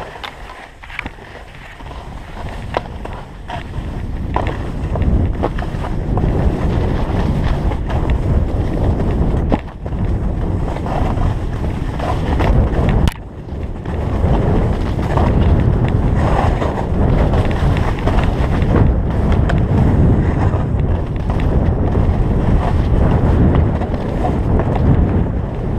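Skis running over snow on a downhill run, with wind rumbling on the microphone. The noise builds over the first few seconds and drops out briefly twice, about ten and thirteen seconds in.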